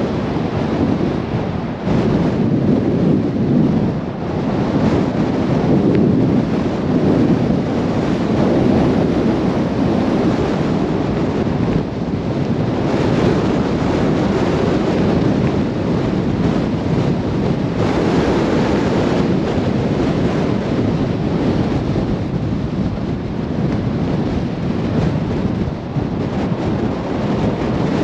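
Strong blizzard wind rushing and gusting against the microphone, a loud low rumble that swells and eases every few seconds.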